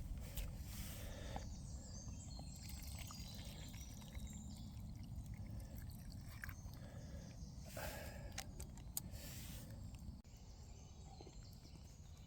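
Quiet outdoor ambience: a steady low rumble with faint bird chirps and a few small handling knocks.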